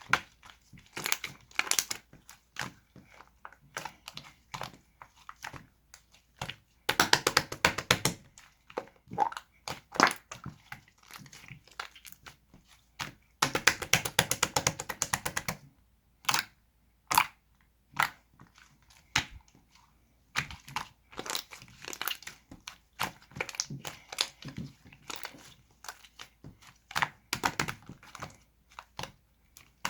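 Slime being squished and poked by hand, making sticky clicking pops and crackles. There are two longer runs of rapid clicking, one about seven seconds in and a longer one about halfway through.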